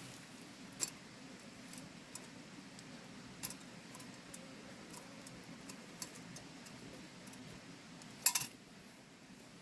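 A few sharp, light clicks and clinks spaced several seconds apart, with a louder quick cluster of clicks about eight seconds in, over a steady low background.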